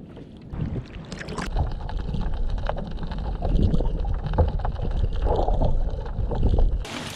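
Wind rumbling on the microphone, with scattered knocks and rustles of handling. The rumble cuts off suddenly near the end.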